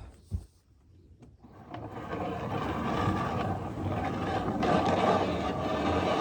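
Two knocks at the start, then about two seconds in a machine starts up and runs steadily with a low hum and a scraping rub: the sawmill feed works turning its drum to wind the new wire rope onto the spool.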